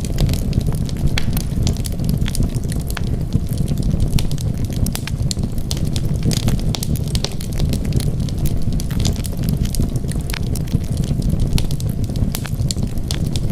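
Wood fire burning in a fireplace: dense, irregular crackling and snapping over a steady low rumble.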